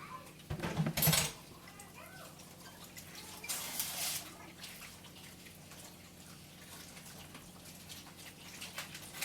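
A sharp knock or clatter about a second in, then a brief rush of water lasting under a second around the four-second mark, over a steady low hum.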